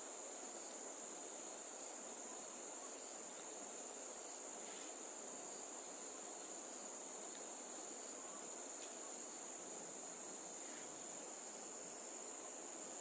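Steady chorus of insects: a continuous high-pitched trill that holds without a break.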